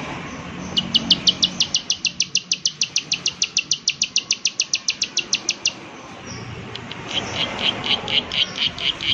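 Plain prinia (prenjak/ciblek sawah) giving its rapid 'klik klik' call: a fast even train of sharp, high clicks, about eight a second, lasting some five seconds. After a short pause a second run of lower, harsher notes starts near the end.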